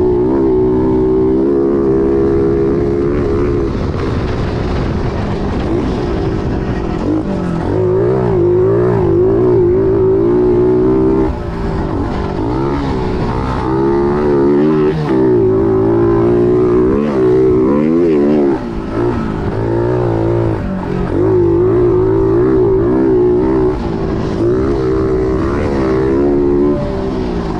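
Pit bike's single-cylinder engine being ridden, revving up and down so its pitch rises and falls over and over, with short drops in level about 11 and 18 seconds in and again near the end.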